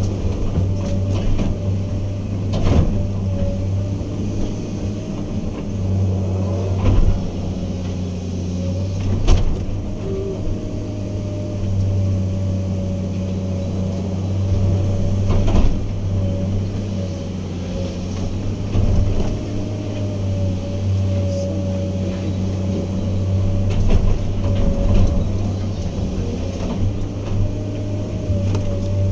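Diesel engine of heavy earthmoving equipment running steadily, with a wavering higher tone above the engine drone and sharp knocks or clanks every few seconds.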